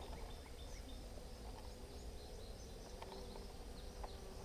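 Honeybees humming steadily around an opened hive, with small birds chirping in the background.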